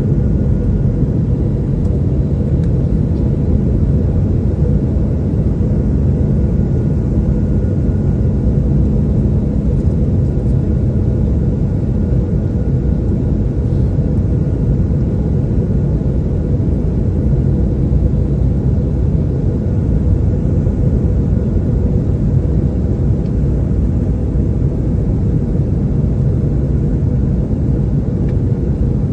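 Steady low rumble of jet engines and airflow heard inside a flydubai Boeing 737's passenger cabin, with a faint steady hum through it.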